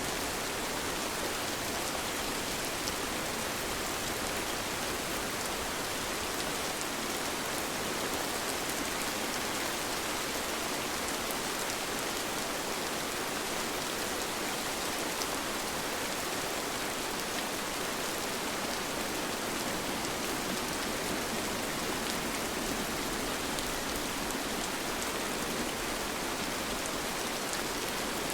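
Steady rain falling: an even, unbroken hiss of rain with faint scattered drop ticks.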